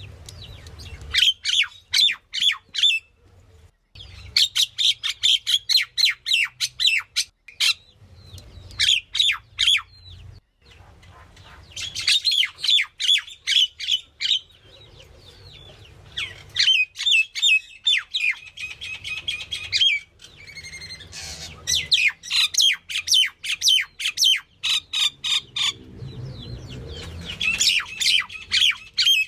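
Myna calling in bursts of rapid, harsh, repeated notes, each burst a few seconds long with short pauses between.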